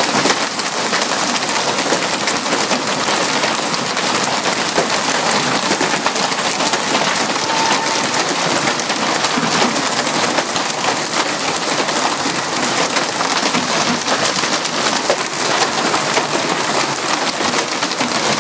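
Hailstorm pelting down: a dense, steady clatter of countless hailstones striking hard surfaces.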